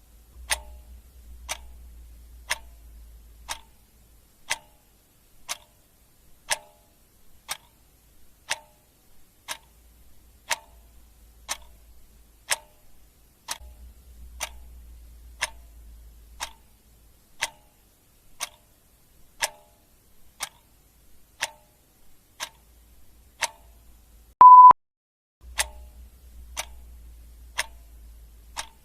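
Clock ticking steadily, one tick a second. About three-quarters of the way through, a single short, loud electronic beep sounds over the ticking.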